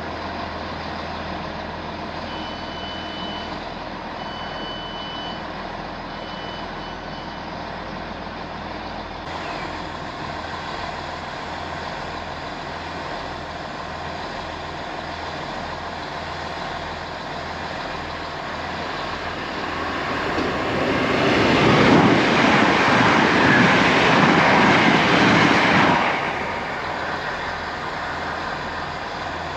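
Diesel passenger train running at a station platform, its engine giving a steady, throbbing note. Several short high beeps sound early on, and about twenty seconds in a much louder rushing noise builds and holds for about five seconds before dropping back.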